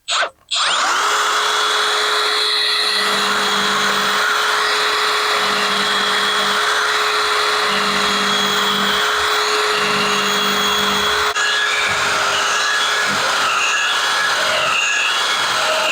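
Small electric finger belt sander starting up again after a brief stop, then running with a steady whine as it sands wood. About eleven seconds in, its note drops and wavers as it is worked against the wood.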